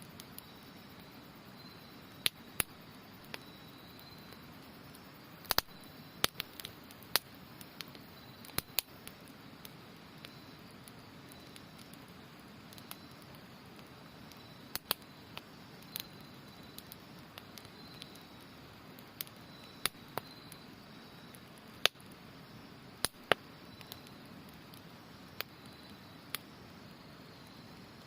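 Wood campfire crackling with sharp, irregular pops, over the steady rush of a river and the faint trilling of autumn insects.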